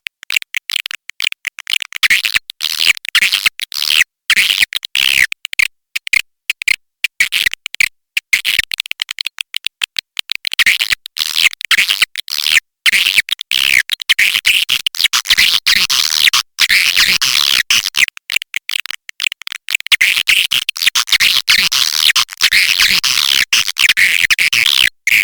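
Swiftlet calling recording used to lure swiftlets into a nesting house: a dense, loud chatter of rapid high chirps and twitters from many birds, broken by many brief gaps of silence.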